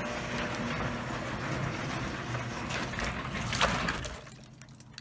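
Garage door moving under its opener with a steady mechanical hum and rumble, a sharp clack about three and a half seconds in, then stopping about a second from the end.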